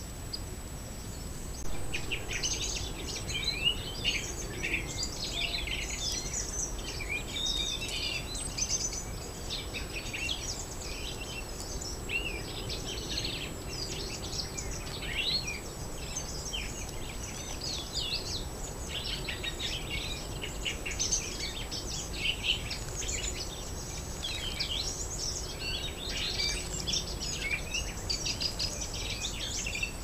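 Dense chorus of small birds chirping and twittering rapidly, starting about two seconds in, over steady low background noise.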